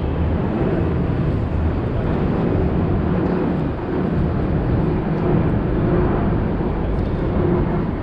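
Strong wind blowing on the microphone: a steady rush of noise, heaviest in the low end, with city street traffic underneath.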